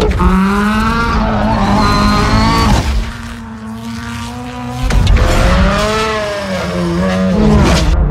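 Car engine revving, its pitch rising and falling. It drops to a quieter, steadier note about three seconds in and surges back loud about five seconds in.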